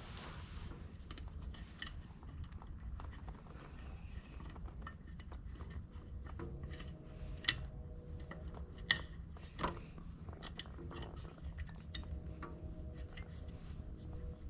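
Small metallic clicks and taps of hands working a headlight bulb and its wire retaining clip into a tractor headlight housing, with a few sharper clicks a little past the middle.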